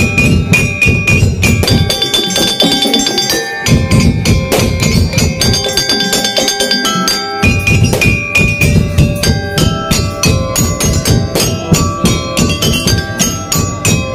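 Madurese daul (tongtong) ensemble playing: fast, dense drumming and struck wooden and metal percussion under a melody of held high notes.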